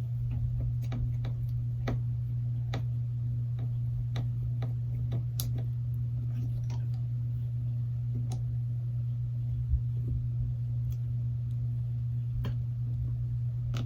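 A steady low hum throughout, with scattered small clicks and ticks as tiny phone screws are handled and driven in with a hand screwdriver.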